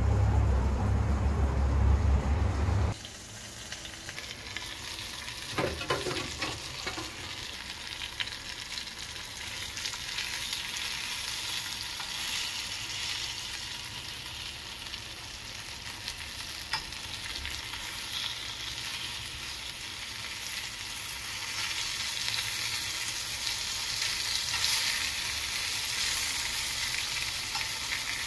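Breaded shrimp frying in hot olive oil: a steady sizzle with fine crackles and pops, growing somewhat louder in the later part. A loud low rumble covers the first three seconds and cuts off suddenly, and there are a few knocks about six seconds in.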